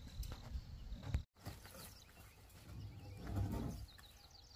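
Rural outdoor sounds. There is a knock about a second in, then a brief rustling scrape as a wooden pole is handled. Near the end a bird chirps in a quick run of short, falling notes.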